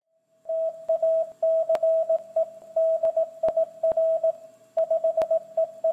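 Morse code: a single steady beep keyed on and off in short dots and longer dashes, starting about half a second in, with a few sharp clicks of crackle among it.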